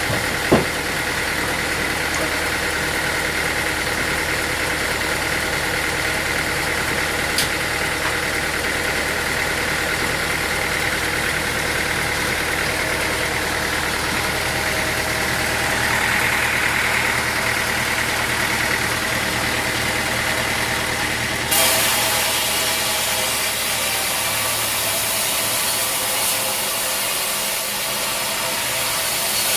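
Sawmill machinery running with a steady engine hum, and a sharp knock about half a second in. About two-thirds of the way through the sound changes abruptly to a brighter, hissier whir.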